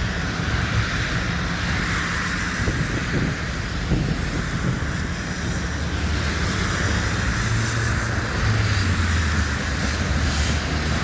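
Freight train rolling past with a steady rumble, wind buffeting the microphone. A low diesel engine drone grows stronger over the second half.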